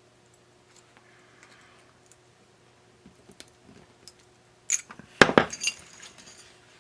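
Faint scattered clicks, then about two-thirds of the way through a short, loud burst of hard clinking and rattling, like small metal tools or parts being handled and set down on a workbench.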